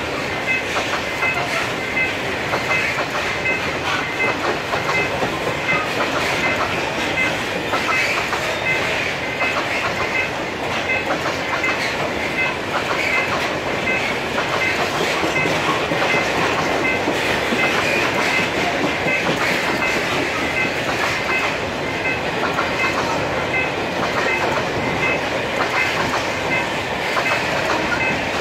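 A long freight train's wagons rolling past at steady speed, with the wheels clattering over the rail joints.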